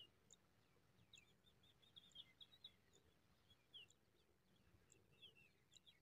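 Faint, high-pitched bird chirps: short notes that slide downward, spaced irregularly, with a quick run of chirps about one to three seconds in.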